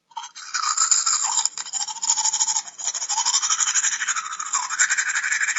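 Teeth being brushed with a toothbrush: rapid back-and-forth scrubbing strokes, a continuous scratchy, bristly sound that rises and falls in pitch as the brush moves around the mouth.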